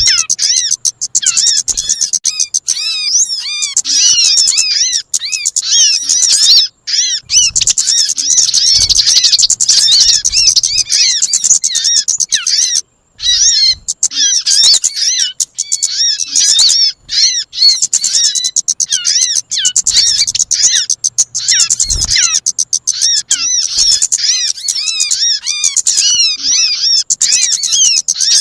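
Bird-lure recording of small birds calling: a dense, rapid stream of high-pitched arched chirps, many overlapping, with brief breaks about 7 and 13 seconds in.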